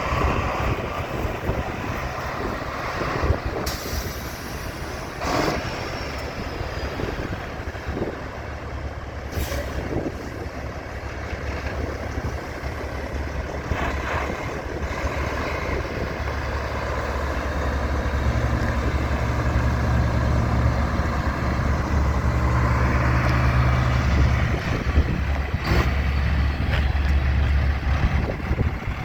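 1993 Kenworth T-800 semi truck's diesel engine running with a steady low drone that grows louder about two-thirds of the way through. A few short, sharp sounds come in the first half.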